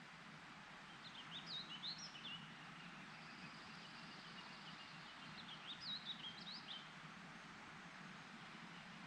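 A songbird singing two quick phrases of rapid, high chirping notes, the first about a second in and the second about five and a half seconds in, over a faint, steady rushing background.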